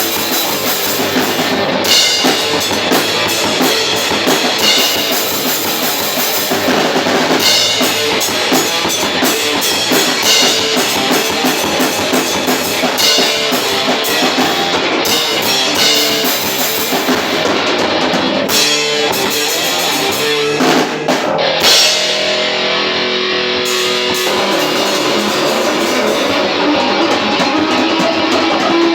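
Live metal band playing: distorted electric guitar, bass and a full drum kit with regular cymbal and snare hits. Around twenty seconds in the drums drop out with a few hits, leaving the guitars ringing on into the last stretch.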